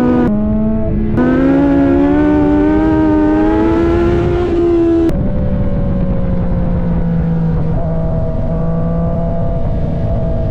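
Motorcycle engine under way. Its pitch climbs steadily for a few seconds as it accelerates, then drops suddenly to a lower, steadier note that slowly sags.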